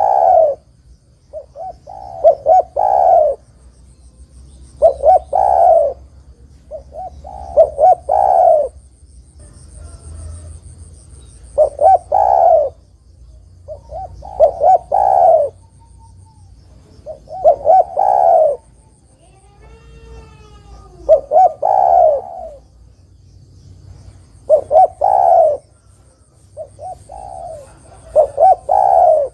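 Spotted dove (derkuku) cooing over and over: each phrase is a few short coos ending on a longer one, repeated about every two to three seconds. Under it runs a faint low hum.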